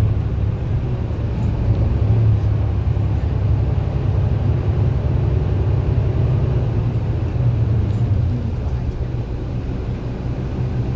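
MAN double-decker bus engine running steadily on the road, a low drone that swells and eases slightly, a little quieter after about eight seconds.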